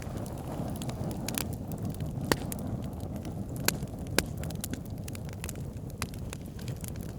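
Wood campfire burning with a steady low rush of flame and scattered crackles, a few sharper pops about two, three and a half and four seconds in.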